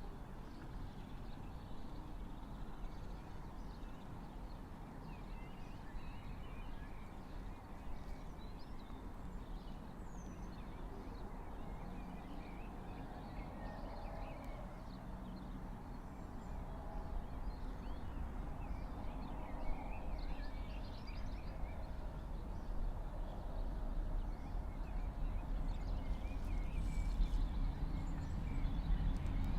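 Steady low rumble with small birds chirping on and off. The rumble grows gradually louder over the last several seconds, as if a train is approaching.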